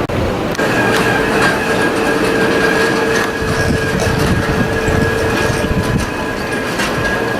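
Wildwood boardwalk tram car running past, its wheels rumbling and clattering over the boardwalk planks, with a steady whine held from about half a second in.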